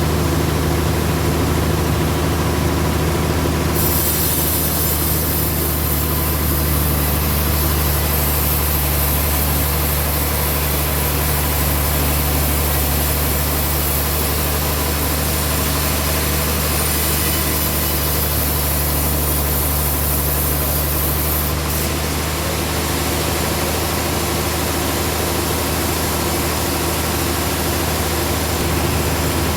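Band sawmill running with a steady low engine drone; from about four seconds in until about twenty-one seconds a high hiss joins it as the blade cuts through trembesi (rain tree) wood.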